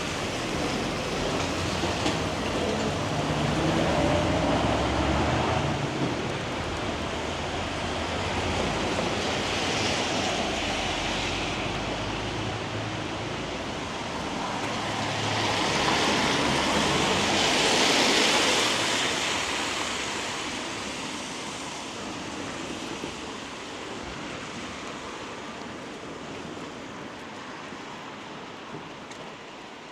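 Traffic passing on a wet road. A low engine rumble runs through the first dozen seconds, then tyre hiss swells to a peak about 18 seconds in and fades away over a steady background hiss.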